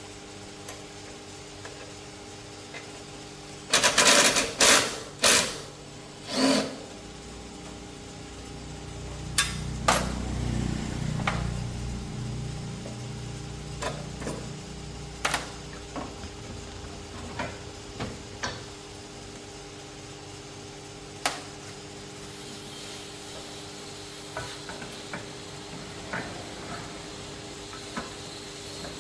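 Metal knocks and clanks from repair work on a motorcycle main stand, over a steady hum. Four loud strikes come in quick succession about four seconds in, and scattered knocks and clicks follow. A low rumble swells and fades around the tenth second.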